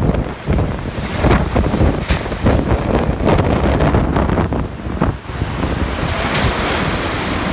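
Typhoon-force wind from Typhoon Jebi gusting hard and buffeting the microphone: a loud, rumbling rush of noise that surges and drops in rapid gusts.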